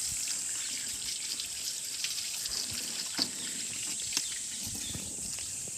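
Water trickling and dripping, with scattered small clicks and taps, the loudest two about three and four seconds in.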